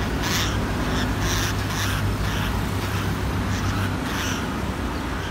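Budgerigars giving short, harsh chirps and squawks about twice a second, over a steady low hum.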